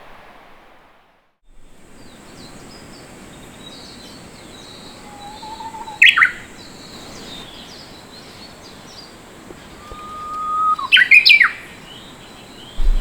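A songbird singing two phrases: each opens with a lower whistled note and ends in quick, sharp higher notes. The second phrase opens with a long held whistle. A faint, steady high-pitched tone sounds underneath.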